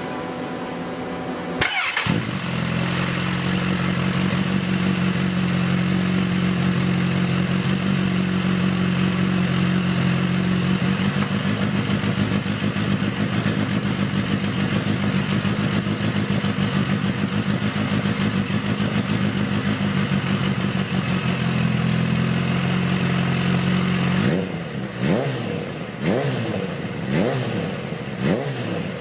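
Kawasaki H2 SX supercharged inline-four running through an aftermarket muffler. The engine is held at steady raised revs for about twenty seconds for an exhaust sound-level test, then blipped several times near the end.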